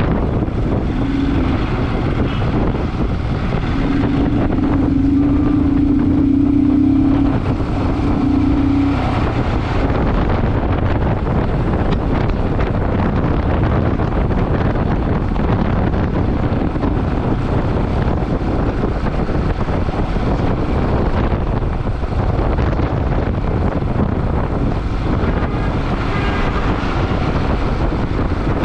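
Motorcycle riding along a road, with the engine running under steady wind rush on the microphone. A steady low hum sits over it for about the first nine seconds, broken twice.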